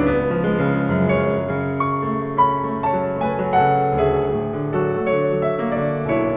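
Calm piano music: a slow melody of overlapping, sustained notes.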